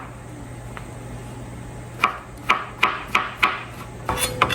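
Kitchen knife chopping button mushrooms on a cutting board: after a short pause, five sharp strikes in quick succession about two seconds in, then a quicker cluster of knocks near the end.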